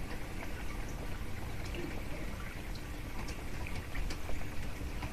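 Heavy rain pouring down, a steady hiss scattered with the ticks of individual drops striking surfaces.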